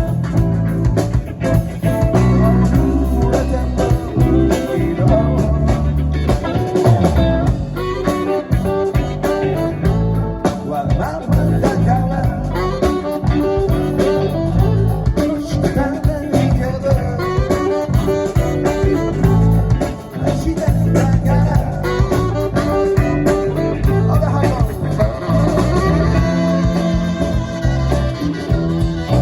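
A live rock band playing a song: drums, bass and electric guitars, loud and continuous, with a voice singing at times.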